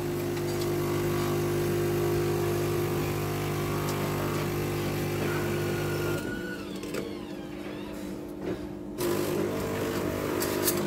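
Automatic coffee machine running as it prepares a cup: a steady motor hum that drops away about six seconds in and starts again about three seconds later.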